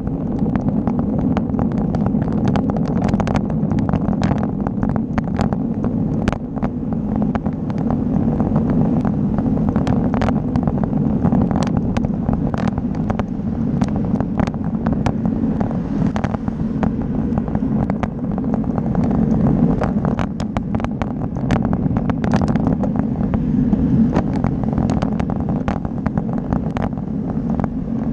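Steady rush of wind and road noise on a camera riding along on a moving bike, with frequent short clicks and rattles throughout.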